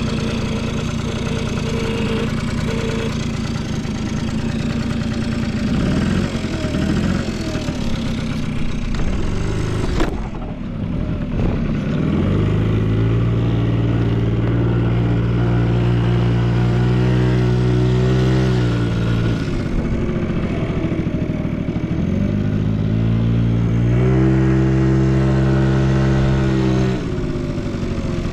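Honda Squash AB11 scooter's 50cc two-stroke engine idling, then revved up twice, each time held for several seconds before dropping back to idle, with a sharp click about ten seconds in. It runs quietly with no abnormal engine noise.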